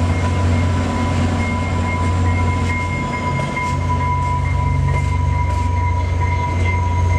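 Diesel passenger locomotive running at low speed while switching, a steady low engine drone with a constant high whine over it.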